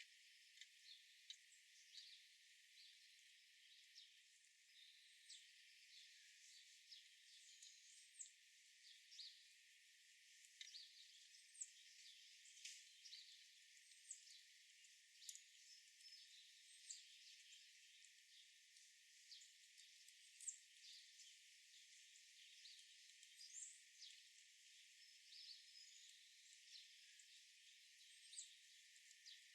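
Faint birdsong: many short chirps and quick calls from several small birds over a steady outdoor hiss.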